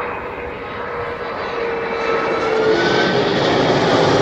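Airbus Beluga XL's twin Rolls-Royce Trent 700 turbofans roaring as the jet flies low past, growing louder, with a whining engine tone that drops in pitch about two-thirds of the way through as it passes overhead.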